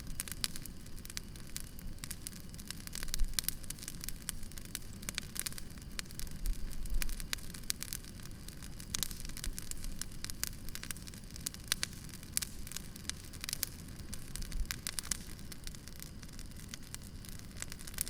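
Wood campfire crackling and popping: many small snaps scattered irregularly over a low, steady rumble of burning.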